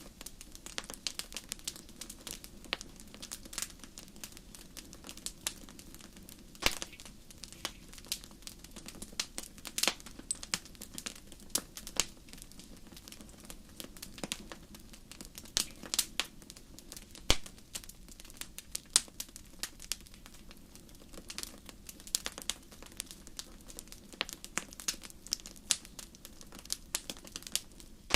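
Campfire crackling: wood burning, with irregular sharp pops and snaps over a faint low hiss.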